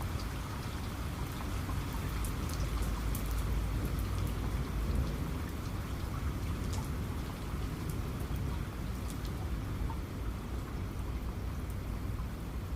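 Steady rain falling, with separate drops striking close by, sharpest in the middle of the stretch, over a low rumble of thunder.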